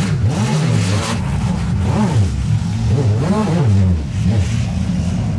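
Engines of small demolition-derby cars revving up and down again and again, several at once, in repeated rising and falling surges.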